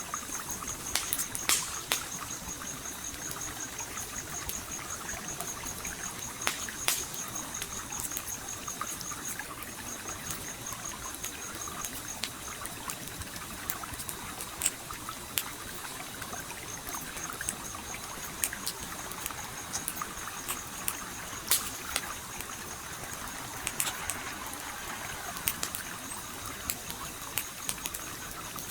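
Campfire crackling, with sharp pops every second or two, over a small stream trickling and burbling steadily. A high, fast-pulsing trill runs in the background and drops out twice for a few seconds.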